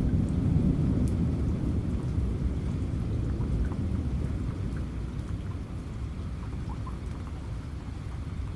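Low rolling thunder rumbling, strongest at the start and slowly dying away, over steady rain with scattered raindrop ticks.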